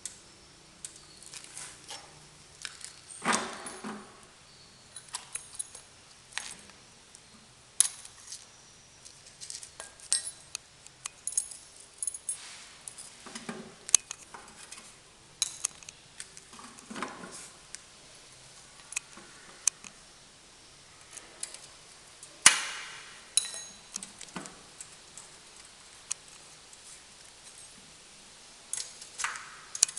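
Irregular metallic clinks and knocks of hand tools and loose engine parts being handled during engine disassembly and reassembly, with louder knocks about three seconds in and again about two-thirds of the way through.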